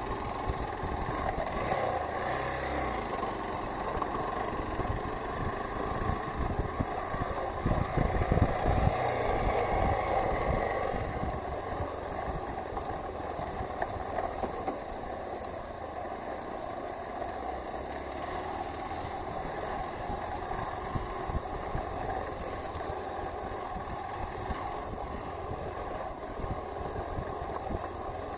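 Hero Xpulse 200 4V's single-cylinder engine running as the bike is ridden, with wind and road noise. It grows louder with a few low thumps around eight to ten seconds in, then settles to a steady run.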